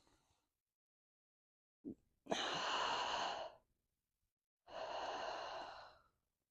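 A person breathing audibly through a constricted throat in ujjayi breath: one long breath in and one long breath out, each with a hissing, ocean-like rasp, and a small mouth click just before the first.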